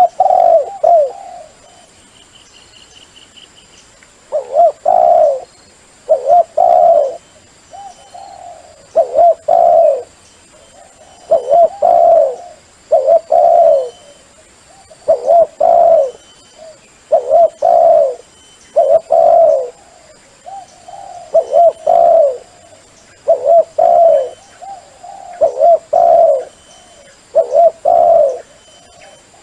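Spotted dove cooing with the deep 'sấm' voice, a phrase of two or three low coos repeated about every two seconds, with short pauses between.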